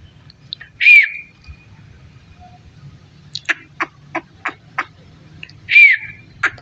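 Indian ringneck parrot giving two short, loud screeches about five seconds apart, each rising and falling in pitch. Between them comes a run of about six sharp clicks.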